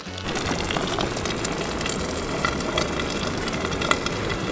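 Enchilada sauce, onions, tortilla chips and eggs sizzling in a small nonstick skillet on a camp stove: a steady, dense crackle of many tiny pops.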